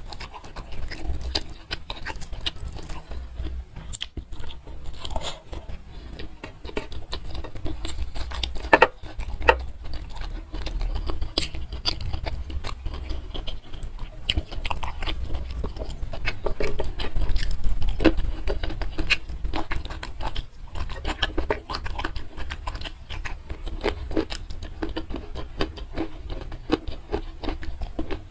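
Close-miked chewing and biting of food eaten by hand, with many short clicks and crunches.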